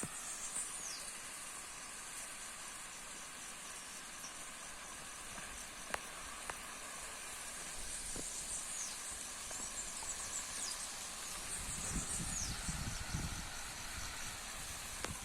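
Steady hiss of a large forest fire burning, with a few sharp pops about six seconds in and faint high chirps above it. A low rumble of wind on the microphone rises near the end.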